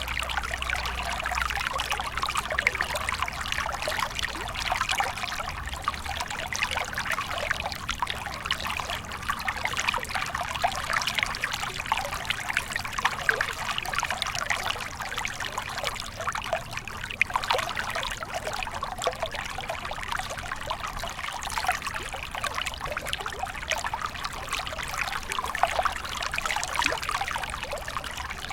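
Small stream flowing and trickling over stones, a steady babble of fine splashes and gurgles.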